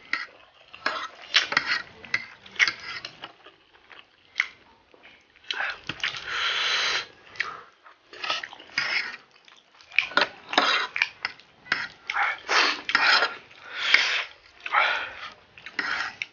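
Eating spicy instant ramen noodles: utensils clinking against the bowl, slurping and chewing, with sniffs from the chilli heat.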